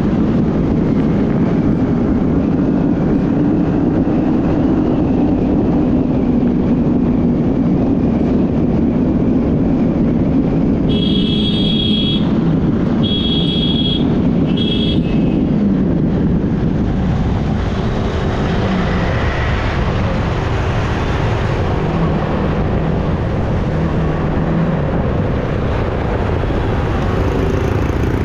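Yamaha R15 motorcycle riding along a road: engine and wind rush on the rider's microphone. About eleven seconds in a vehicle horn sounds three short beeps.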